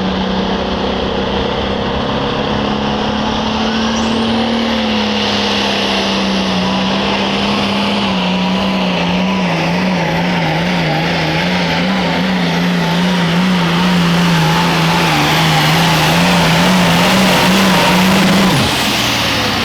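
A competition pulling vehicle's engine running flat out under load as it drags the weight-transfer sled down the track, with a high steady whine above it. About halfway through the engine note starts to waver up and down, and near the end it cuts off sharply as the throttle is released at the end of the pull.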